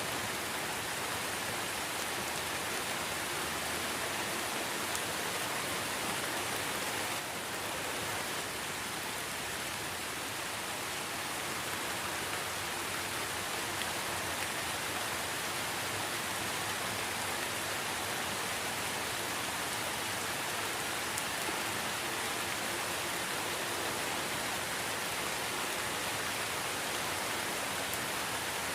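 Steady rain falling, a dense, even hiss of drops with no thunder.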